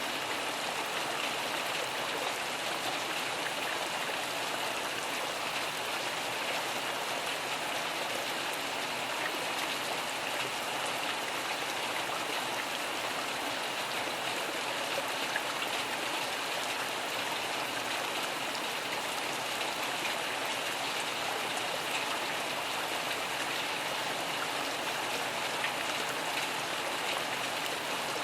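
Steady rain falling, an even hiss with scattered small drop ticks throughout.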